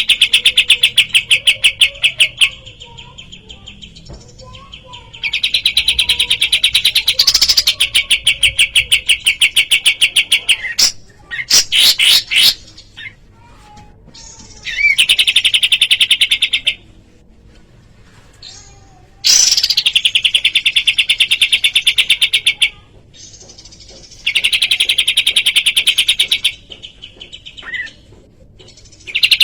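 Kapas tembak bulbul song from a masteran recording: rapid, buzzy trills in bursts of two to three seconds, repeated over and over with short gaps, some with brief rising whistled notes.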